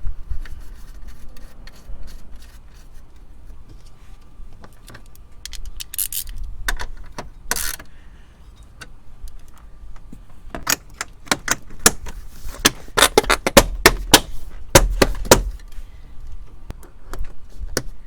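Hand tools and small metal parts clicking and clattering as a car's main relay is bolted back into place under the dash. The clicks come in scattered bursts, with a dense run of rapid clicks about two thirds of the way through.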